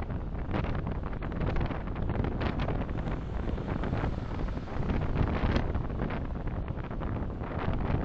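Steady rumble of road, tyre and engine noise from a car driving along, with small swells and brief rushes rather than any single event.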